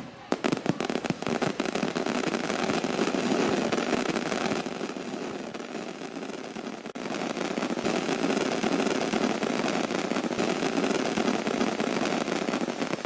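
Fireworks display: a dense, continuous barrage of rapid crackles and pops. It eases briefly about halfway, then builds again.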